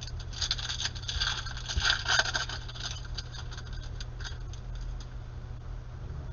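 Trading cards being handled and slid through by hand: a quick run of small scrapes and ticks, busiest in the first couple of seconds.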